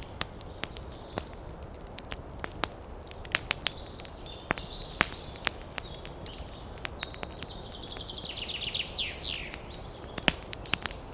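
Wood campfire crackling, with irregular sharp pops, over a low steady rumble of wind. Small birds chirp, and about eight seconds in one sings a quick run of falling notes.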